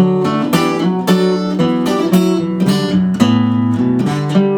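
Acoustic guitar strumming chords, about two strokes a second, with the chord changing every second or so.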